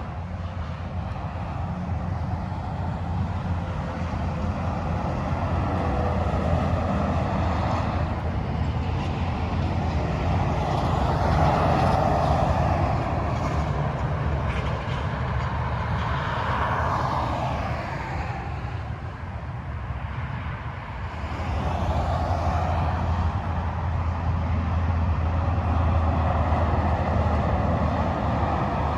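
Freeway traffic with heavy trucks going by: a continuous rush of tyre and engine noise with a low drone, swelling as each vehicle passes, with a short lull about two-thirds of the way through.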